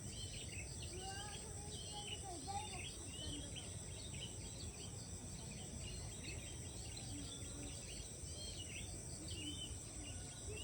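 Many birds chirping and calling over one another, with a steady high insect drone and a low rumble underneath.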